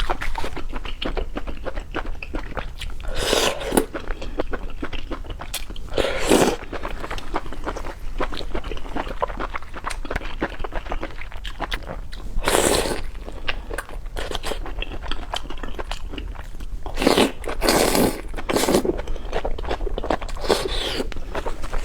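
Close-miked eating: a steady crackle of crunching and chewing, with several louder crunching bites spread through.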